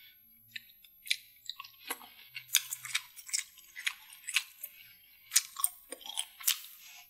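Close-miked chewing of saucy food: scattered wet mouth clicks and smacks, a few every second.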